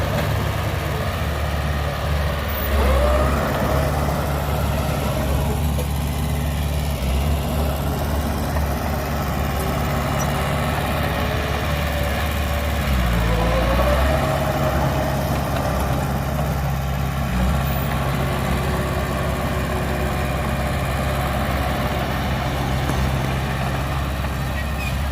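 Heavy diesel engine of earthmoving machinery running steadily, its pitch dipping and swelling briefly about three seconds in and again about thirteen seconds in.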